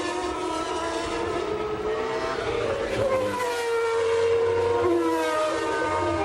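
Honda RA121E naturally aspirated V12 of the 1991 McLaren MP4/6 at racing revs, its high-pitched note falling and rising several times with gear changes and throttle.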